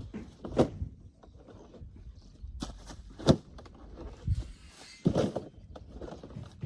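Scattered knocks and thumps with footsteps, about four distinct hits spread irregularly, the sharpest a little past three seconds in.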